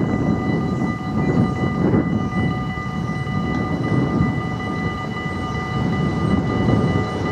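Freight train rolling over a level crossing, a dense, uneven rumble of wagons and wheels on the rails. Over it rings a steady, high, bell-like tone with several pitches held throughout, typical of the crossing's warning bell.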